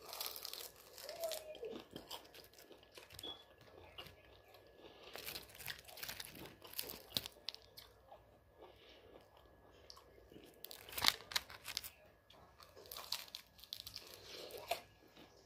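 Crispy chicken wing being bitten and chewed: irregular crunches and chewing sounds, the loudest crunch about eleven seconds in.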